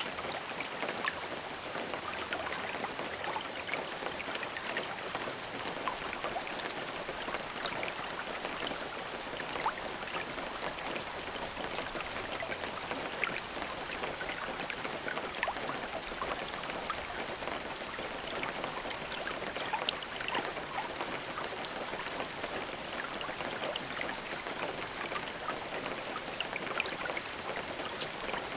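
Steady rain, with many individual drops ticking on a surface over an even hiss.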